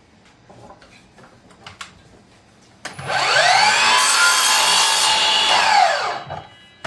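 Electric miter saw cutting a wooden strip at 45 degrees: about three seconds in the motor spins up with a rising whine, runs loud through the cut, then winds down with a falling whine near the end. A few light handling clicks come before it.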